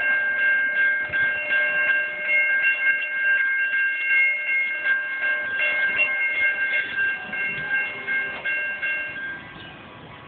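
CSX freight train passing close by: rumble and clatter of the cars with a high, steady squeal over it that stops about nine seconds in, where the sound drops off sharply.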